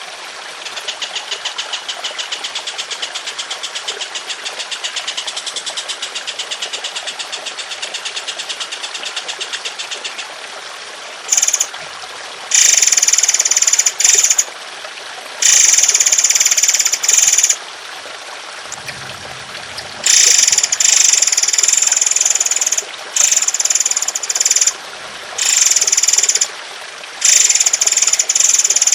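Songbird masteran recording: a rapid, evenly pulsed high trill for about ten seconds, then loud harsh rasping bursts of one to two seconds each, repeated with short gaps, over steadily trickling water.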